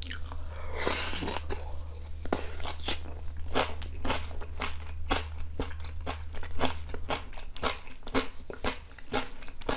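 Close-up crunching of crispy battered fried chicken being chewed, a steady rhythm of about two crunches a second.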